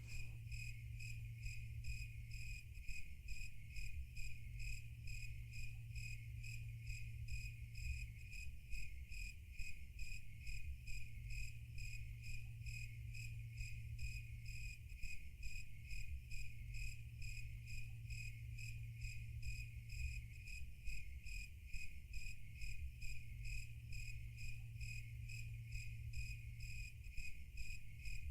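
Crickets chirping in a fast, even rhythm, over a steady low hum.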